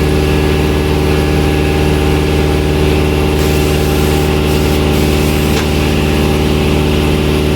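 Machinery running steadily with an even, unchanging hum and a fine rapid pulse.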